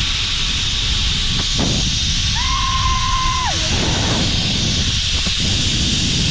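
Zip line trolley running along the steel cable with a steady hiss, and wind buffeting the microphone with a low rumble. About two and a half seconds in, a high drawn-out call holds for about a second and falls away at the end.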